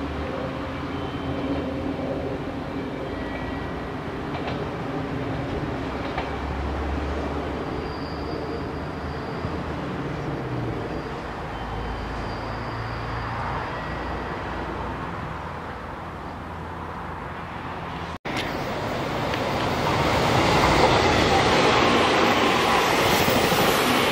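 An Amagi Railway AR400 diesel railcar's engine running as it pulls away down the line, slowly fading. After a sudden cut about 18 seconds in, a JR Kyushu 885 series electric limited express passes at speed, loud, with a dense, rising wheel and running noise.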